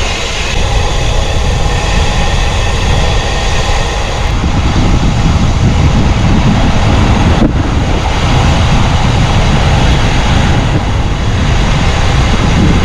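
Steady loud rumble and rush of a moving vehicle, with wind buffeting the microphone; the low rumble grows stronger about four seconds in.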